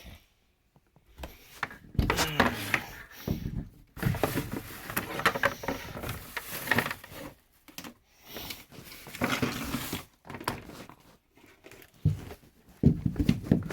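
Irregular rustling and knocking handling noises in bursts of a second or two, with pauses between; no motor is running.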